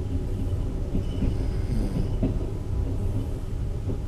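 Express passenger train running on the rails, heard from inside the coach at the window: a steady low rumble, with a few brief squeaks around the middle.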